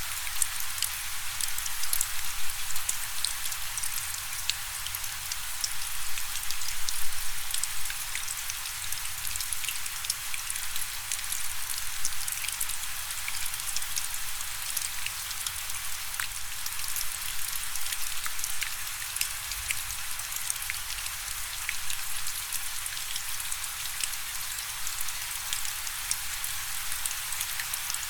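Steady rain with many individual drops pattering close by, crisp and high, with almost no low rumble.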